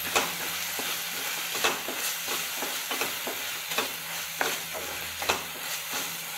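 Onion-tomato masala sizzling as it fries in oil in a pan, stirred with a wooden spatula that scrapes and knocks against the pan at irregular intervals.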